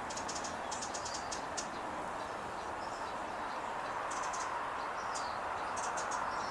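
Small songbirds chirping in quick runs of short, high chirps, in several clusters, over a steady background hum.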